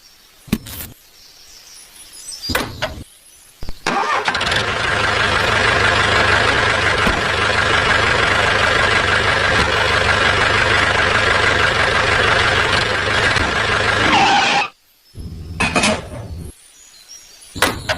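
An engine or motor runs steadily for about ten seconds, starting and cutting off abruptly. A few short knocks come before and after it.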